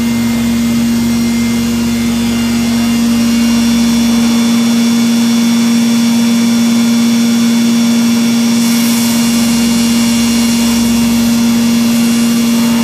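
Mazak VTC-30C CNC vertical machining center running, a steady machine hum with a strong constant low tone and several high whines. A brief hiss comes in about nine seconds in.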